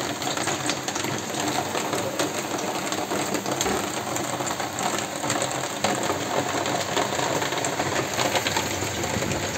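Hot oil crackling steadily in a pan as papads fry, a dense run of fast tiny pops.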